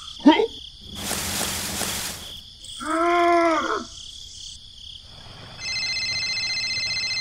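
Edited-in sound effects over a steady cricket chorus: a short squeak, a second-long hiss, and a pitched sound that rises and falls. About five and a half seconds in, a phone starts ringing with a steady electronic ringtone.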